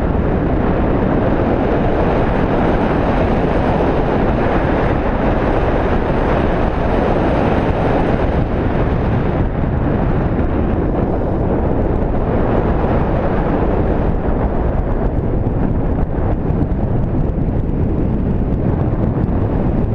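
Steady, loud wind noise buffeting the microphone, a continuous low rush of air.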